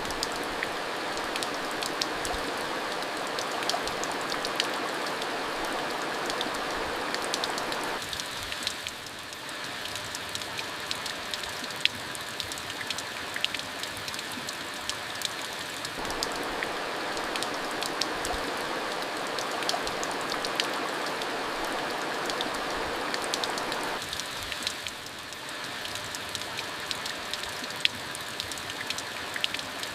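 Steady rain falling, with many individual drops giving short sharp ticks over the even hiss; it eases slightly for a moment about eight seconds in and again about two thirds of the way through.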